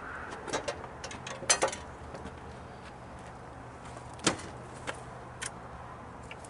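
A few scattered light clicks and knocks of something being handled, the loudest a quick cluster about a second and a half in, over a faint steady low hum.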